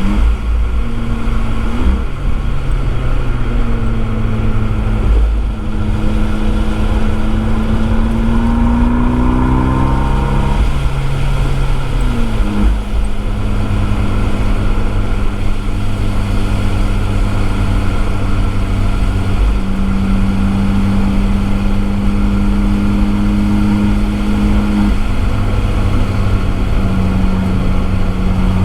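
Abarth 595 esseesse's turbocharged 1.4-litre four-cylinder running through an Akrapovič exhaust, heard from a microphone in the boot: the engine note climbs and steps through the revs for the first ten seconds or so, drops sharply about twelve seconds in, then holds a nearly steady drone.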